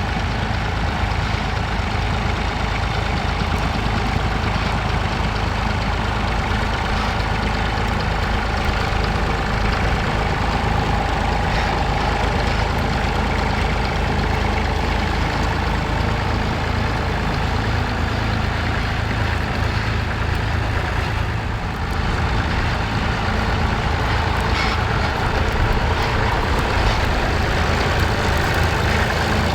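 Massey Ferguson tractor engine running steadily, with a brief dip in level about two-thirds of the way through.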